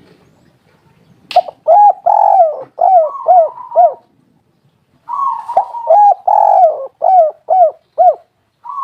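Spotted dove (tekukur) cooing: two phrases a second apart, each a run of short, arching coos with one longer note among them, and a third phrase just beginning at the end.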